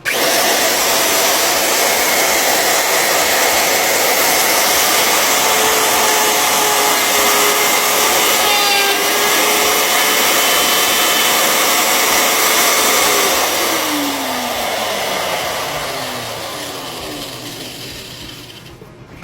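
Old electric router switching on and running at full speed as it plunges and cuts a keyhole slot in wood, then switching off about thirteen seconds in and spinning down with a falling whine.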